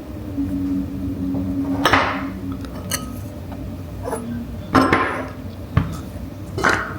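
Tableware knocking and scraping: bowls and utensils handled on a table, with three louder clatters about two seconds in, about five seconds in and near the end, and small clicks between.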